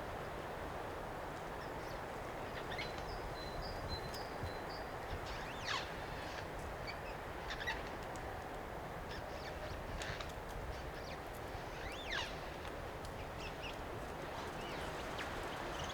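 Eurasian jay calling: short squeaky notes and two long downward-sliding squeals, about 6 and 12 seconds in, that imitate the creak of a tree. Steady wind noise runs underneath.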